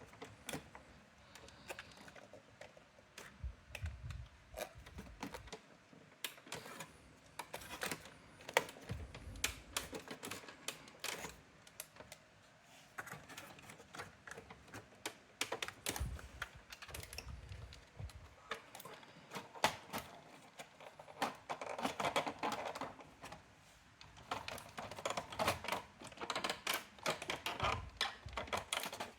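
Irregular clicking and clacking from a Brother AX-425 electronic typewriter, with a few dull thumps.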